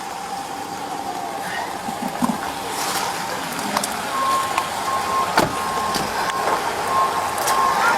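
Steady hissing background with a few sharp knocks. About four seconds in, an electronic beeper starts repeating a single high tone, about two beeps a second.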